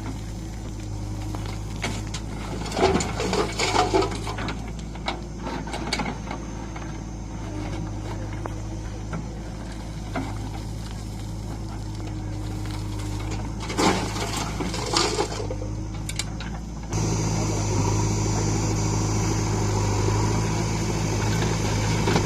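Diesel engine of a JCB 3DX backhoe loader running steadily, with two spells of clattering knocks, and a sudden step to a louder, fuller engine sound about three-quarters of the way through.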